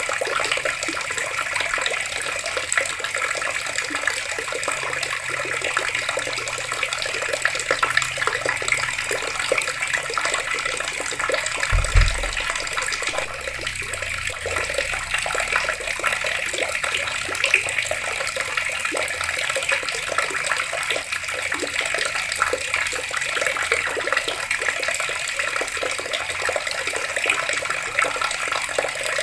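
Water running steadily from taps and splashing, an even hiss of falling water. A single brief low thump sounds about halfway through.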